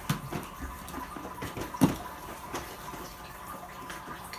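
Plastic Lego bricks clicking and clattering as they are handled and pressed onto a base plate: a string of small, irregular clicks and knocks, with one sharper click a little under two seconds in.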